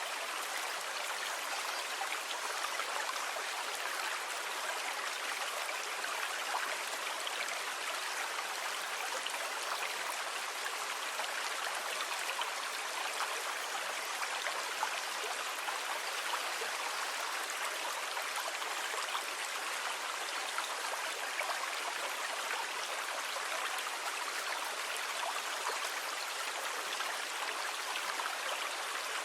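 Steady rush of moving water with fine splashing, holding an even level throughout with no rise and fall of separate waves.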